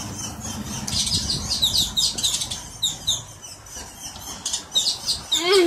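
Small birds chirping: many short, high, quickly falling chirps, several a second, with a louder, lower sliding sound just before the end.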